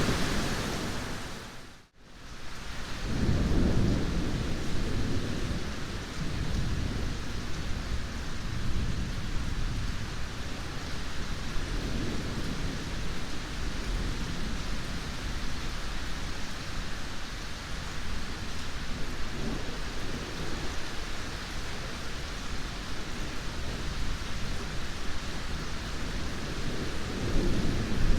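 Steady heavy rain with low thunder rumbling in several swells. About two seconds in, the sound fades out almost to silence for a moment, then comes back.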